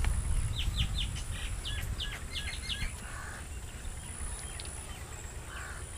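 Outdoor ambience: a small bird gives a quick run of short, falling chirps through the first half, over a steady low rumble.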